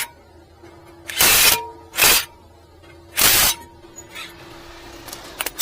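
Three heavy hammer blows about a second apart on a Toyota RAV4's seized hub bearing, each leaving a short metallic ring. The bearing's locating spigot is rusted in so badly that light taps will not free it.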